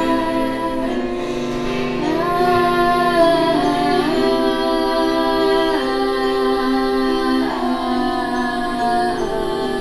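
Music with singing: long held vocal notes that step to a new pitch every second or two over steady lower tones.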